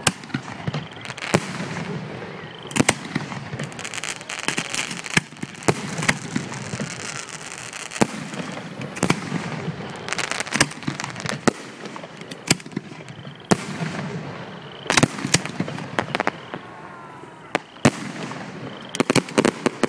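Fireworks display: aerial shells bursting in the sky one after another. There are a dozen or more sharp bangs at uneven intervals, with crackling and rumbling between them.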